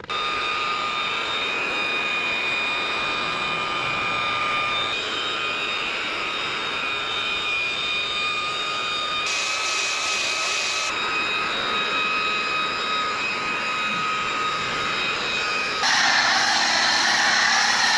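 A steady machine whine with a rushing hiss beneath it. The sound changes abruptly several times, and it is loudest and most hissing over the last two seconds.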